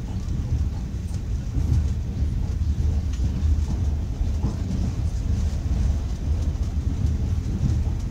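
Running noise of a passenger train carriage heard from inside: a steady low rumble of wheels on rails, with a few faint clicks now and then.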